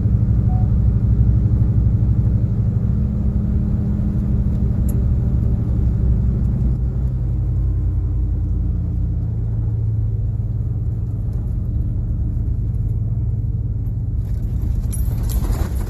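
A heavy engine rumbling steadily and loudly, deep and low, with a brief rushing noise near the end.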